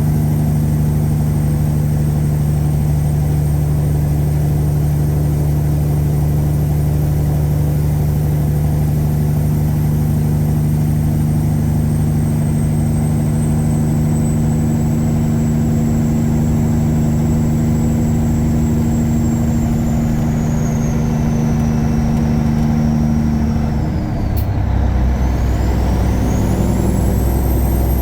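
Caterpillar 3406E diesel in a Freightliner Classic truck pulling steadily under way, with a high turbocharger whistle above the engine note. Near the end the whistle sinks and the engine note drops and changes, as in a gear shift, then the whistle climbs again as it pulls once more.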